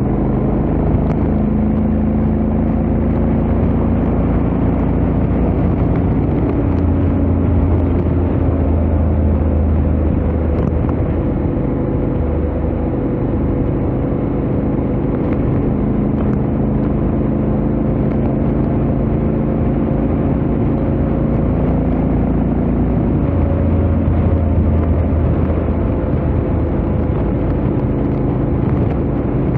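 Honda X-ADV 750 parallel-twin engine running at steady highway cruising speed through its stock exhaust, with wind rushing past. The engine note drifts gently up and down with the throttle.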